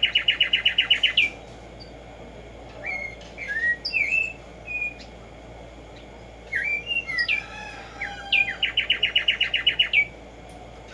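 Black-striped sparrow (tumba yegua) singing: a rapid trill of evenly repeated notes at the start, a few separate slurred chirps in the middle, and a second rapid trill near the end.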